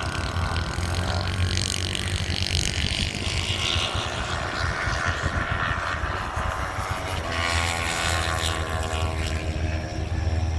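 Racing motorcycle engines running at speed around the track, their pitch rising and falling as the bikes accelerate and shift, with a fresh rise about two-thirds of the way in.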